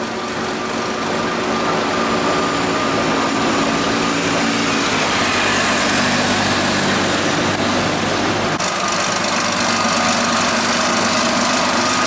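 Farm tractor's diesel engine running steadily, its pitch shifting a little about halfway through and again near the end.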